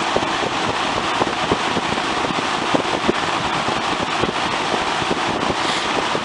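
Lakewood S23 box fan cold-started and running on high speed: a steady rush of air from the blades and motor.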